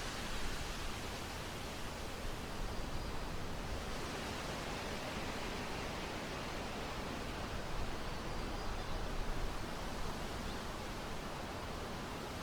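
Wind blowing on the microphone in a steady rush with a deep rumble, swelling in gusts about half a second in and again around three quarters of the way through.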